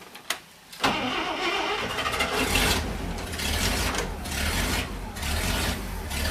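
International Harvester SV304 gasoline V8 in a 1973 Loadstar school bus, started hot. A few clicks come first, then the engine catches about a second in and keeps running. This is how it runs after it's hot, and it needs a tune-up.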